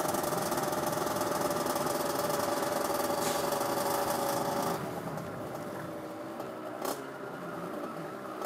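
Derbi Senda's two-stroke single, fitted with an 80cc kit, running at steady high revs under way. About five seconds in the throttle closes and the engine drops to a lower, quieter note as the bike slows, with one brief click a couple of seconds later.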